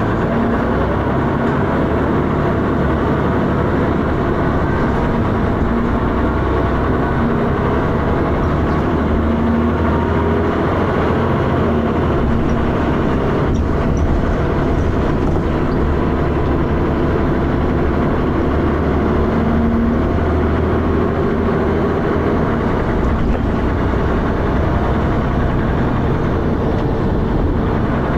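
Dennis Arrow double-decker bus's diesel engine pulling under way, with the loud knocking and thrash the bus is known for. The engine note rises and falls slowly as the bus changes speed.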